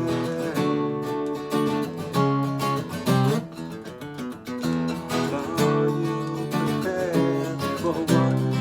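Instrumental acoustic guitar music: strummed chords changing about every half second to a second.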